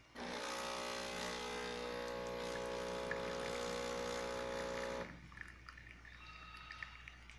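Capsule coffee machine's pump running with a steady hum as the bigger-cup button pours, cutting off after about five seconds, with faint small ticks after. It stops after giving only a very little water, which is the machine's fault.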